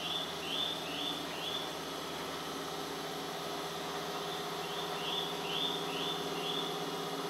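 A bird chirping: a quick run of about five high chirps near the start and another run about five seconds in, over a steady low hum.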